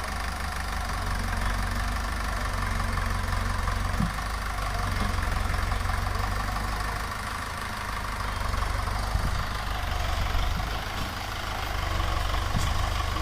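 Sonalika tractor's diesel engine running steadily with an even low beat, with a brief knock about four seconds in and another near the end.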